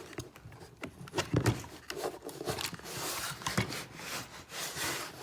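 Light clicks and short scraping strokes of a small chisel tip being worked against a carbon fiber RC wheelie bar to line up a hole. The Dremel is not running.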